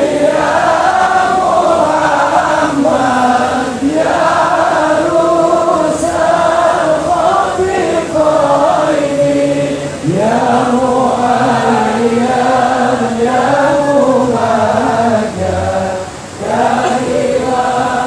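A large crowd singing sholawat together in unison, a devotional Islamic chant in long drawn-out phrases with short breaths between lines.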